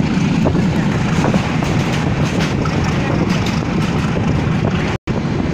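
Moving train heard from its roof: a steady, loud rumble of the running train with scattered rattling clicks. The sound cuts out for an instant about five seconds in.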